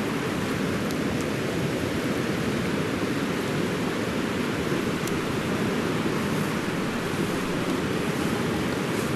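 Steady, even rush of a fast-flowing mountain river.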